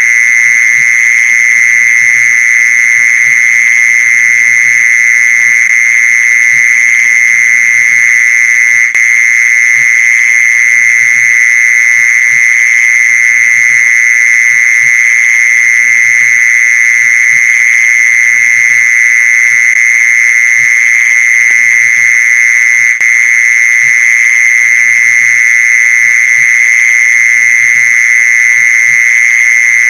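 Mole cricket call: a loud, steady, unbroken trill held at one pitch.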